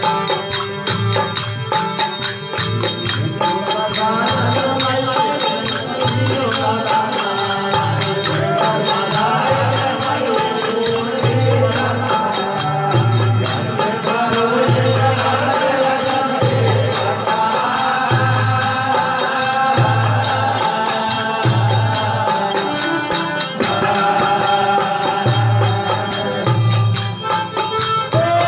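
Desi veena bhajan music: a melodic line over a steady low drum beat with jingling percussion.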